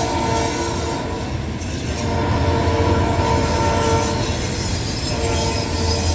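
CN freight diesel locomotive passing, its air horn sounding a chord in several blasts, the longest in the middle, over the low rumble of the diesel engines and the train.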